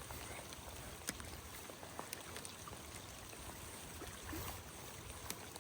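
Creek water running steadily, with scattered faint ticks over it.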